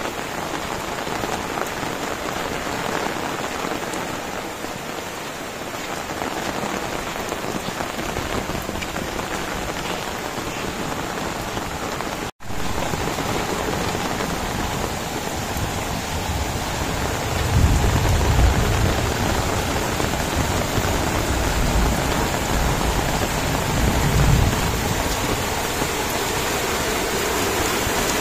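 Heavy rain falling steadily on leaves, paths and open ground, cutting out for an instant about twelve seconds in. Past the middle, a low rumble of thunder rolls for several seconds under the rain.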